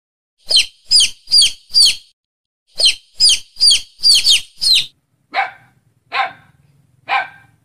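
A bird chirping in two quick runs of short, high, downward-sweeping chirps, then a dog barking three times, about a second apart.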